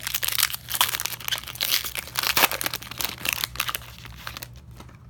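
A trading card pack's wrapper being torn open and crinkled in the hands, an irregular run of crackling and tearing that dies away near the end.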